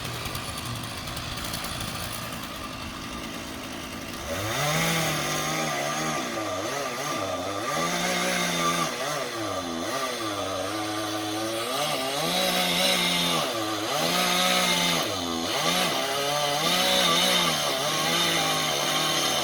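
Two-stroke chainsaw engine running. About four seconds in it goes louder and starts revving up and dropping back over and over; before that it runs at a steadier, lower pitch.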